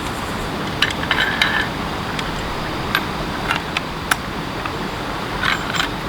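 Camp cookware and utensils clinking and tapping a handful of times, one clink ringing briefly about a second in, over a steady hiss of background noise.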